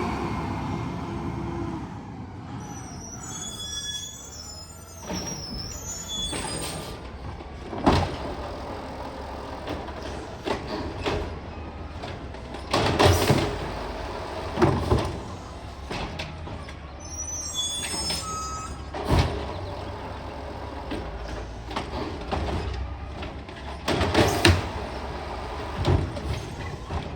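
Garbage truck's engine running steadily, with a series of loud sudden bangs and short hisses spread across several seconds.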